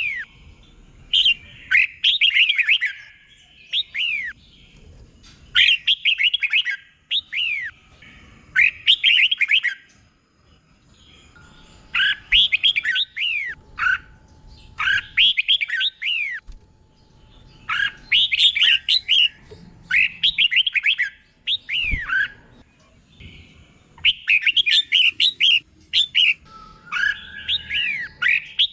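Red-whiskered bulbul singing: bright, quick chirping phrases delivered in bursts of about a second, with short pauses between them. The phrases are repeated one after another, the doubled song that bulbul keepers prize.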